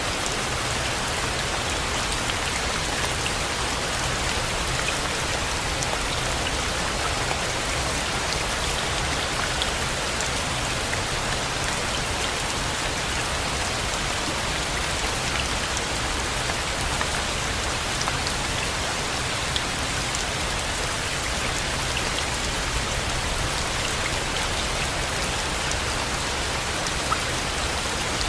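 Steady rain falling on a surface, with scattered individual drops ticking through it and a low rumble underneath.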